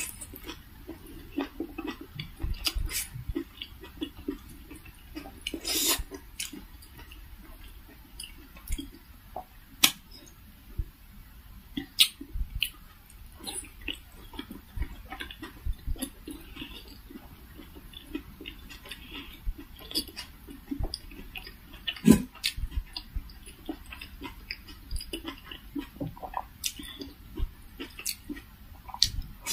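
A person chewing and eating steamed vegetable momos (dumplings) close to the microphone, with irregular mouth clicks and smacks.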